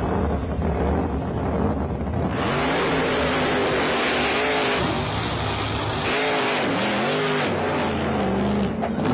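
The Hemi Under Glass Plymouth Barracuda's engine revving up and down several times under hard acceleration while the car lifts its front wheels in a wheelie. A loud rush of engine and tyre noise comes in about two seconds in.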